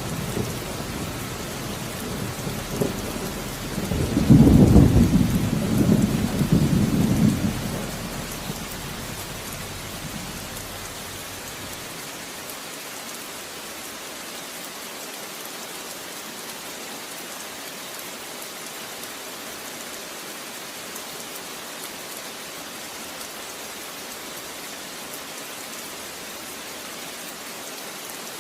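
Steady rain with a loud, deep peal of thunder swelling about four seconds in and dying away by about ten seconds. After that there is only the even hiss of rain.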